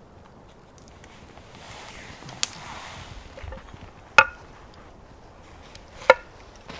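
Three sharp chopping knocks about two seconds apart, the last two ringing briefly.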